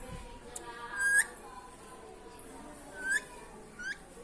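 Alexandrine parakeet calling three times: short piercing notes that each hold briefly and then sweep sharply upward, about a second in, at about three seconds and just before the end.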